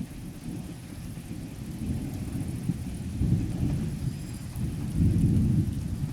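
Thunder rumbling low and rolling, swelling about three seconds in and loudest about five seconds in, with rain falling steadily.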